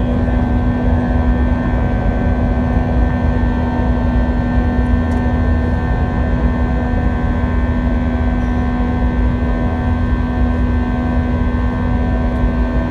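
Steady cabin drone of an Airbus A321 in flight: the low rumble of its jet engines and airflow, with several steady engine tones held without rising or falling.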